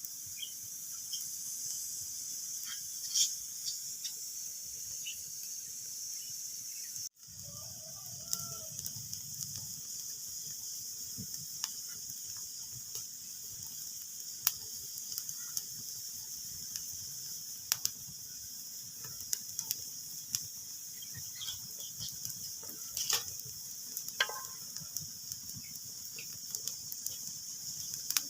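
Wood fire crackling in a fireplace: a steady hiss with irregular sharp pops and snaps. The sound cuts out briefly about seven seconds in.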